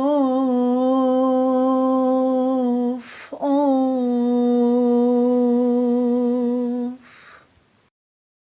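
A singer humming two long, steady held notes on the same pitch, each about three seconds, with a short breath between them. A last breath follows, and the sound stops near the end.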